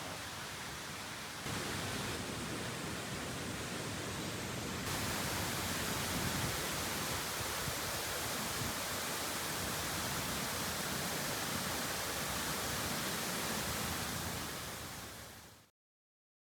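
A steady rushing noise with no distinct events, stepping up in level twice early on, then fading out near the end into complete silence.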